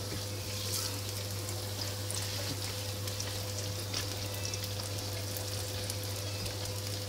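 Garlic and eggplant sizzling in hot oil in frying pans, an even frying hiss with a few light taps of a spatula, over a steady low hum.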